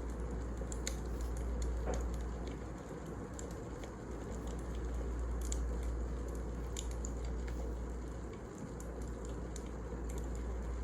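Wood fire burning in a fireplace: a steady low rumble with scattered sharp crackles and pops at irregular moments.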